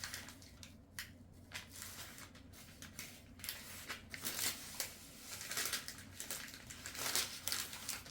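Irregular crinkling and rustling of something being handled, in many short bursts, the loudest near the end.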